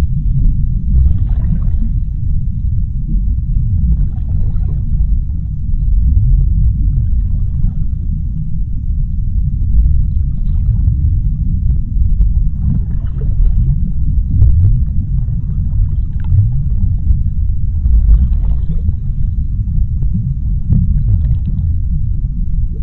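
Underwater sea ambience: a loud, steady deep rumble, with faint higher washes of noise swelling and fading every few seconds.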